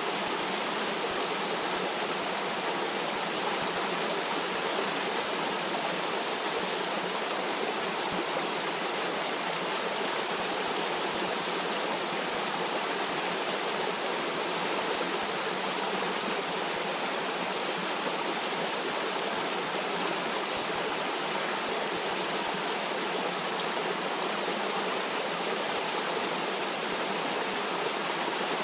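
Stream water flowing steadily: an even, unbroken rush with no changes.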